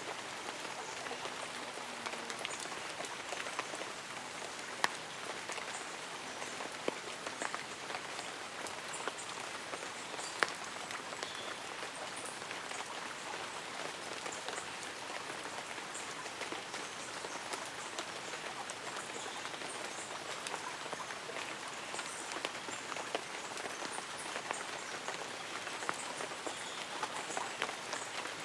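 Light rain falling on tree leaves and an umbrella: a steady patter of fine drops with scattered sharper single-drop taps, a few of them louder.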